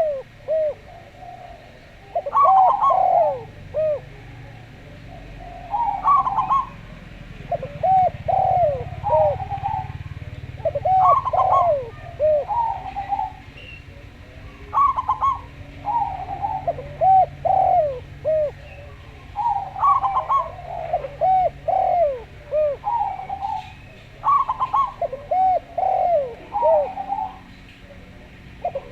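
Zebra doves and spotted doves cooing, in repeated phrases of soft, falling coos that come every two to three seconds.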